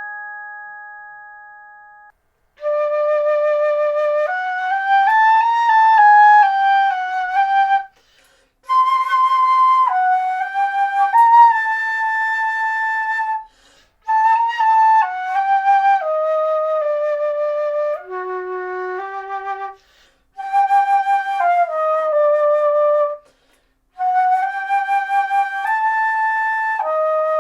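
A Sonor glockenspiel note rings and fades away over the first two seconds. Then a flute plays a slow melody with vibrato in about six phrases, broken by short pauses for breath.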